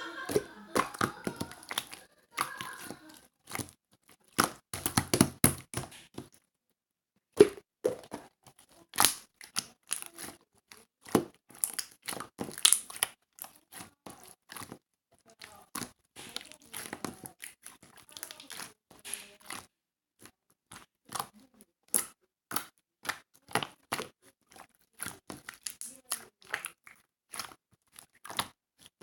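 Irregular crackling, crinkling and sharp clicks, with about a second of silence some six seconds in.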